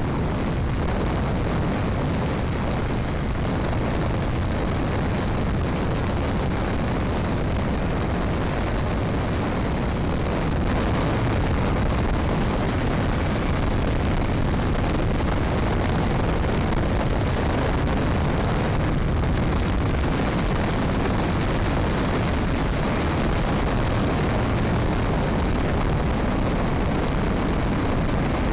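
Steady rush of wind and motorcycle running noise heard while riding, heaviest in the low end, rising slightly in level partway through.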